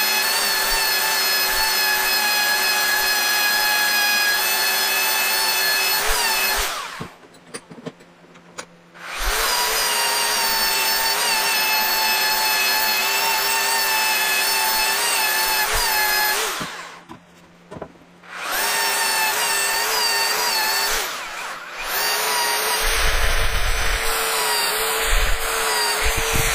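Electric saw running in long steady spells with a motor whine, making repeated cuts to clear a notch in lumber for lack of a dado blade. It stops briefly twice, about seven and seventeen seconds in, and starts again each time.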